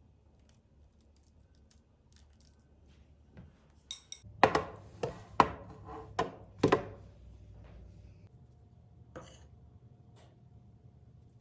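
A quick run of sharp knocks and clatters, about six in three seconds, like household objects being handled and set down, followed by one more knock a couple of seconds later.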